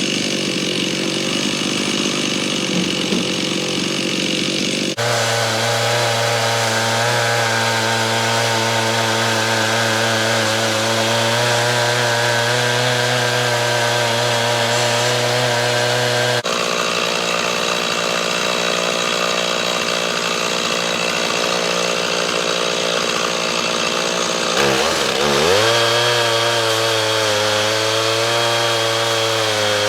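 Stihl MS 391 two-stroke chainsaw running steadily at high speed under load, ripping lengthwise through a green cedar log in a chainsaw mill. The engine note shifts abruptly about five seconds in and again around the middle, and near the end the pitch dips sharply and then picks back up.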